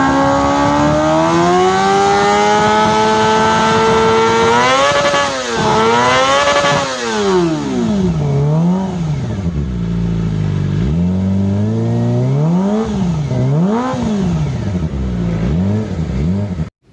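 Kawasaki ZX-25R 250 cc inline-four running through an aftermarket racing exhaust. The revs climb steadily for about four and a half seconds, dip and rise a couple of times, then go through a series of quick throttle blips, each rising and falling in pitch. The sound cuts off suddenly near the end.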